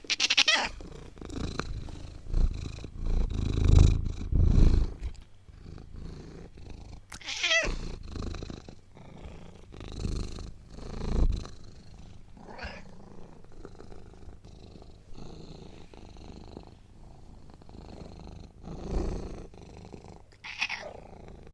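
A domestic cat meowing several times, each call short and falling in pitch, with low rumbling between the calls.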